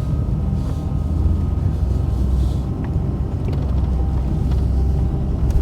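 Truck driving slowly on a back road, heard from inside the cab: a steady low engine and road rumble with occasional small clicks and knocks.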